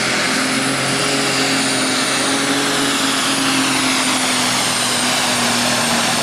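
Super stock diesel pulling tractor with a triple-turbo setup running flat out under load on a pull, a high turbocharger whistle over the steady engine note, which eases slightly down in pitch.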